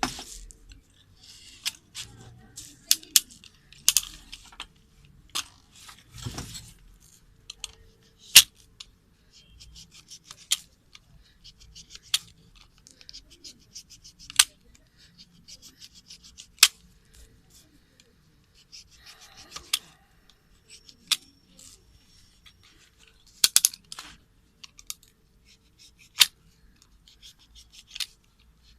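Sharp, irregular clicks and snips from hand tools working on a torn sneaker, with brief stretches of rustling and rubbing.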